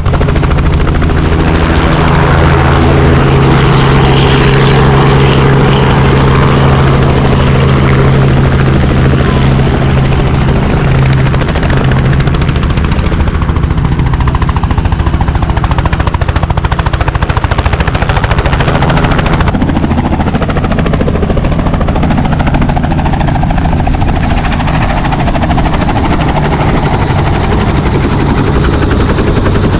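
Helicopter running close by, with a steady engine and turbine drone under the rapid, regular chop of the rotor blades. The high hiss drops abruptly about twenty seconds in.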